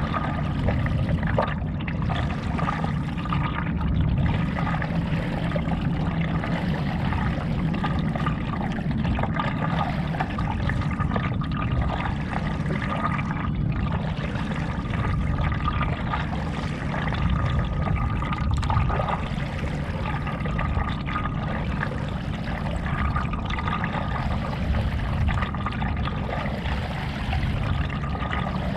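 Lake water sloshing and splashing around a stand-up paddleboard as it is paddled, a steady wash with irregular sharper splashes.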